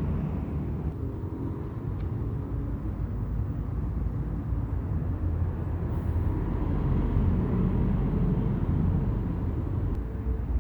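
City bus traffic: a steady low engine rumble from buses on a busy avenue, growing louder in the second half.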